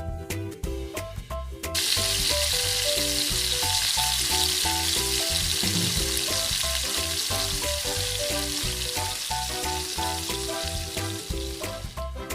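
Food sizzling in hot oil in a cooking pot, starting suddenly about two seconds in and easing a little near the end, over background music with a steady beat.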